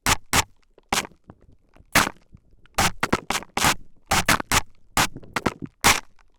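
A spray bottle squirting close to the microphone in quick, irregular short sprays, about fifteen in all, some in rapid clusters of two to four.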